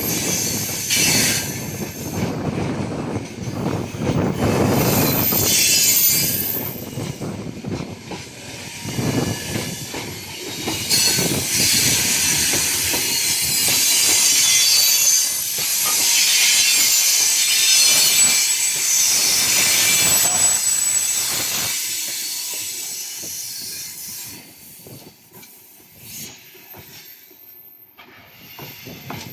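Freight train behind a VL10U electric locomotive rolling past: wheels rumbling on the rails with high-pitched wheel squeal, the noise dying away over the last several seconds.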